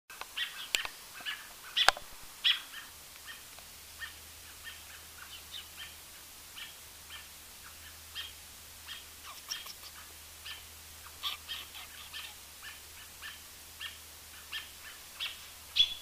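A bird chirping, short sharp chirps repeated about once or twice a second, with two sharp knocks near the start.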